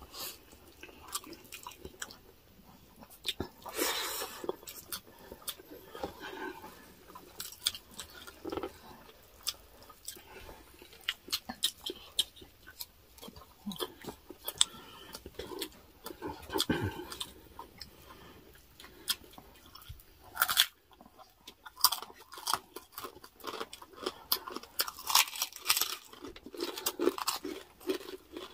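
Chewing and crunching of crispy chicharon (deep-fried pork rinds), picked up close on a clip-on microphone: a run of small crackles and crunches, with a few louder bites.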